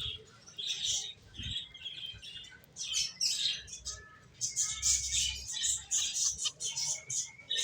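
Pet finches chirping: a steady chatter of short, high calls that grows busier about halfway through.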